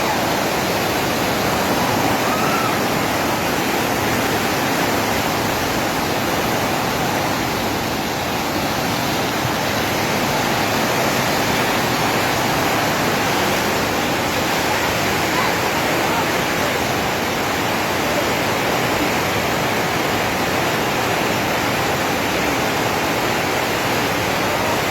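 Loud, steady rush of fast-flowing water, an unbroken roar.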